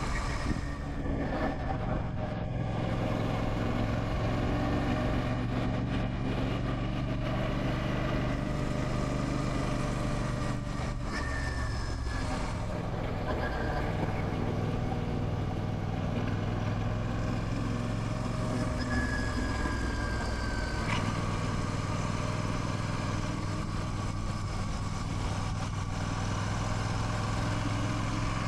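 Royal Enfield Classic 650's parallel-twin engine running steadily while the motorcycle is ridden, its pitch shifting a few times.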